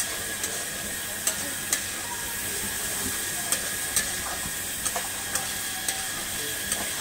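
Spice paste sizzling as it fries down in oil in a metal pan, with a steel spatula clicking and scraping against the pan about ten times as it is stirred. The masala is nearly done frying, near the stage where the oil separates.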